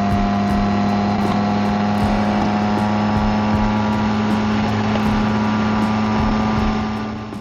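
BMW K1600GT's inline-six engine and exhaust running steadily at a constant cruising speed, with road and wind noise, fading out near the end.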